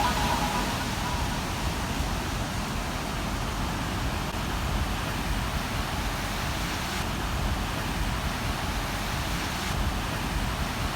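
Steady rushing noise of ocean surf and wind on the microphone, even throughout with no distinct events.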